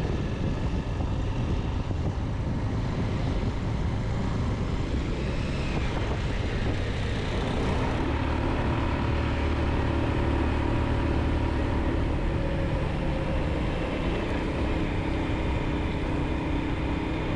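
Motorcycle riding along a road: steady engine running under a constant rush of wind on the microphone, with a steadier engine tone becoming clearer about halfway through.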